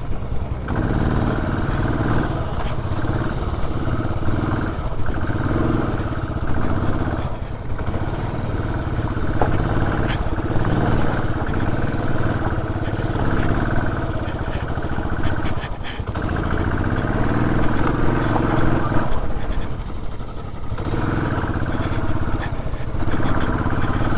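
Benelli TRK 502 motorcycle's parallel-twin engine running as the bike is ridden along a rough trail. The engine note dips briefly a few times, as the throttle is eased and opened again.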